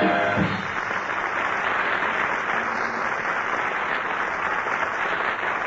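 Studio audience applauding steadily, a dense patter of clapping right after the closing song ends, with the last notes of the band cutting off about half a second in.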